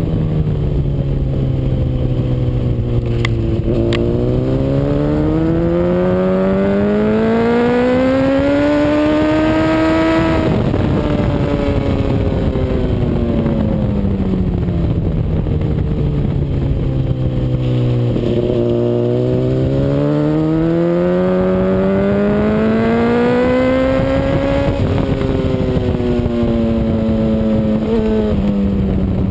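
Honda CBR RR sportbike's inline-four engine at speed on a race track. It holds low revs, climbs steadily in pitch for about six seconds, then falls off, and repeats this climb and fall in the second half.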